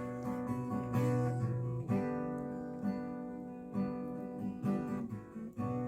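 Acoustic guitar strumming chords, with a last chord struck near the end and left ringing.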